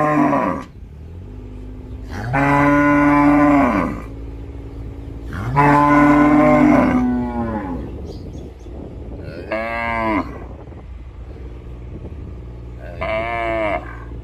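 Cattle mooing: a call ends just after the start, then two long, low moos follow, and later two shorter, higher-pitched calls.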